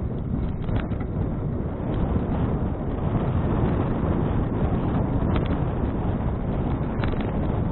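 Wind buffeting an action camera's microphone while cycling, a steady low rumble, with a few brief clicks and rattles.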